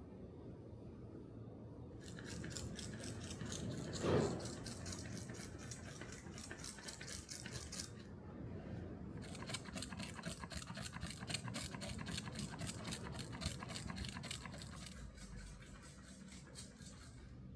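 Rapid, fine rasping strokes in two long stretches, with a short break about eight seconds in, typical of abrasive work on metal. A single knock about four seconds in.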